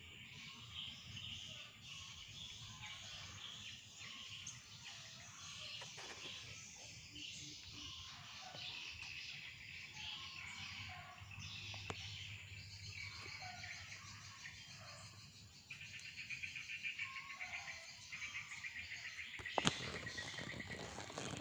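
Small birds chirping and twittering continuously in many short high notes, turning into a faster, busier chatter in the last few seconds. A single sharp knock near the end.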